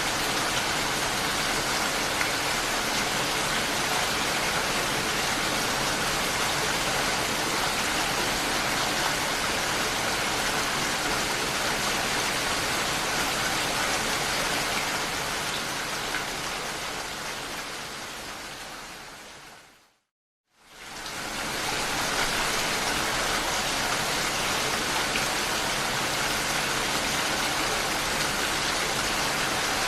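Steady, even rain noise that fades out about twenty seconds in, drops to a moment of silence, and fades back in.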